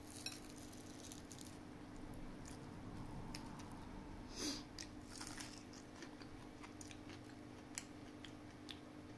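Faint close-up chewing and mouth sounds of someone eating fish and rice by hand, with scattered small clicks and a louder short rustling noise about four and a half seconds in.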